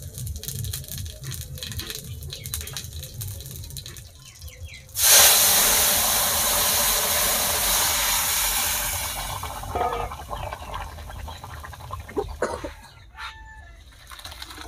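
Food hitting hot oil in an iron karahi: a sudden loud sizzle about five seconds in that fades away over several seconds, after a stretch of faint crackling. A few metal clinks and knocks follow near the end.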